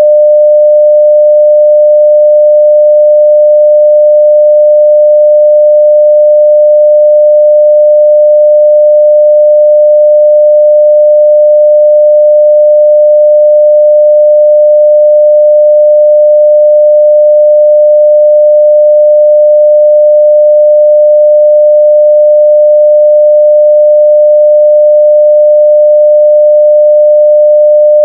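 A 600 Hz sine-wave test tone at full scale (0 dB), one pure steady pitch that does not change.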